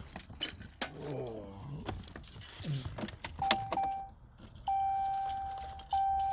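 Keys jangling and clicking, then from about three and a half seconds in the truck's dashboard warning chime starts dinging over and over, each ding a steady tone that fades slowly. The engine is not yet running.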